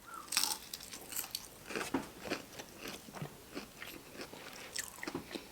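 A person chewing crispy fried chicken close to the microphone, with irregular crunching crackles of the breading several times a second.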